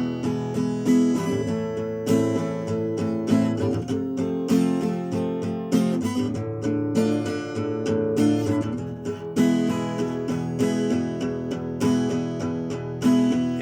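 Acoustic guitar strumming chords, playing a steady instrumental passage with no voice.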